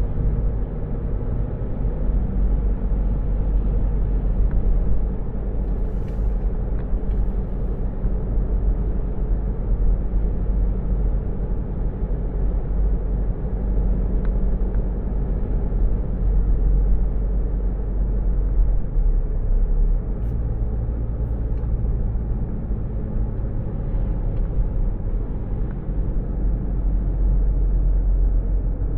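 Steady low rumble of a car heard from inside the cabin, the engine running with road and cabin noise.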